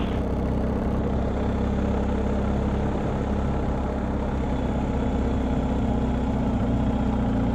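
BMW R1250GSA motorcycle's boxer-twin engine running steadily, a low, even engine hum with no change in pitch.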